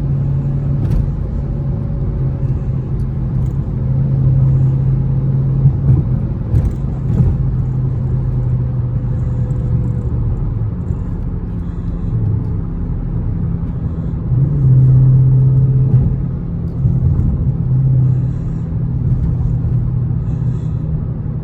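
Dodge Charger Scat Pack's 6.4-litre HEMI V8 running under way, a steady low drone that grows louder twice, about four seconds in and again about fourteen seconds in.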